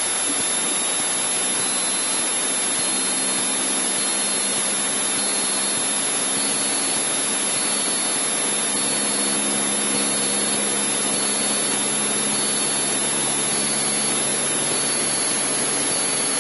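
Cessna 152's Lycoming four-cylinder piston engine running steadily at low power, heard from inside the cockpit as an even drone with a low hum, with no change in engine speed.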